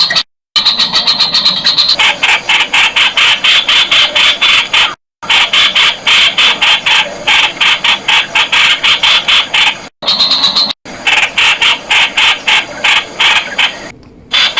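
Streak-eared bulbul calling: a fast run of short, sharp, repeated notes, about four to five a second, broken three or four times by abrupt brief silences.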